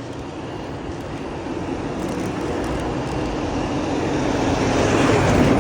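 Rushing street noise while riding a bicycle through city traffic, swelling to its loudest near the end and easing off.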